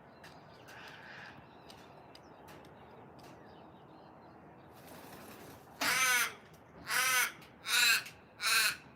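A raven cawing: a run of four harsh calls in quick succession, starting about six seconds in.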